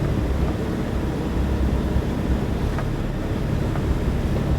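Semi-truck tractor's diesel engine running at low speed while the truck backs up, a steady low rumble.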